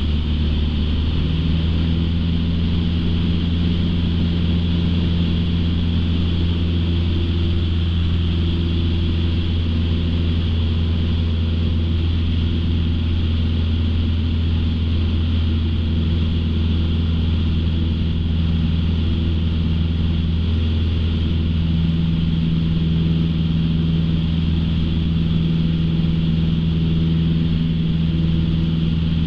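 Single-engine light aircraft's piston engine and propeller running in a steady drone, heard inside the cockpit. It is at climb power, and its pitch shifts slightly a couple of times.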